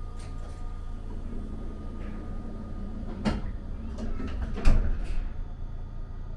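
Steady low rumble of the Shiokaze limited express train running, heard from inside the cabin, with a few sharp knocks and clacks about three seconds in and again around four to five seconds in, the loudest near the end.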